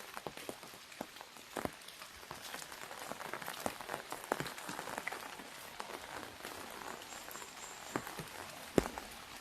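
Rain falling on an umbrella overhead: a steady hiss of rain with scattered sharp taps of single drops on the canopy. One louder drop lands near the end.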